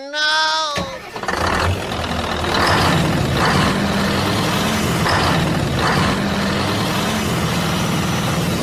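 A steady low engine-like rumble, with bursts of hiss recurring about every 0.7 seconds.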